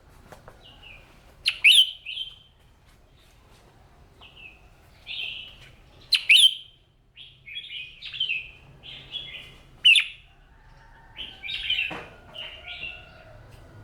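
Red-whiskered bulbul singing: short, bright warbling phrases every second or so, with four sharp, sweeping notes among them.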